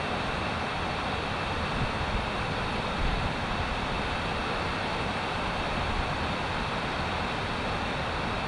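Crystal Creek Falls pouring steadily: a constant rush of falling water.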